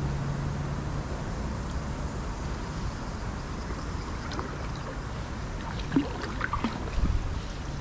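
Steady water and wind noise around a kayak on a creek, with a few small splashes and knocks near the end.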